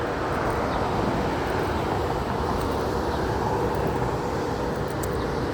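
Steady, unbroken engine rumble of traffic, with a faint hum held throughout.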